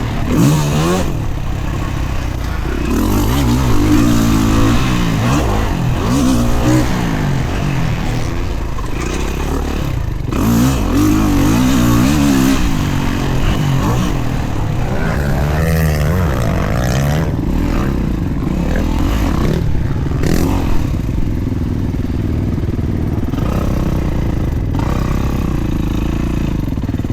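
Dirt bike engine being ridden hard, its pitch climbing and dropping again and again as the throttle is worked and the gears change; in the last few seconds it settles into a steadier, lower note.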